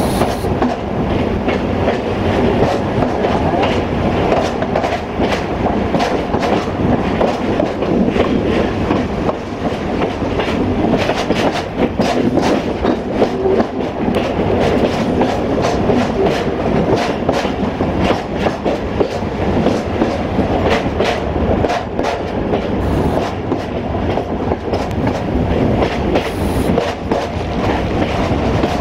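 ADH11 diesel multiple unit running at speed, heard from on board: a steady rumble of engine and wheels on track, with clickety-clack over rail joints, the clicks coming thickest in the middle stretch.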